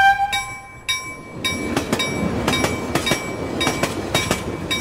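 A chime rings and fades out in the first second. Then a train passes close by with a loud rumble and a quick, uneven clickety-clack of its wheels over the rail joints.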